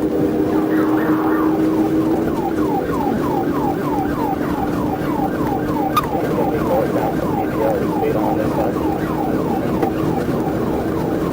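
Police car siren in a fast yelp, its pitch sweeping down again and again about three times a second, over a steady drone.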